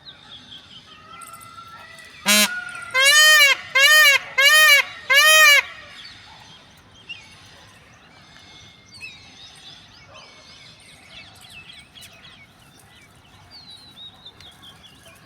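Peacock calling: a short note a couple of seconds in, then four loud honking calls in quick succession, each rising and falling in pitch. After that only faint high chirps are heard.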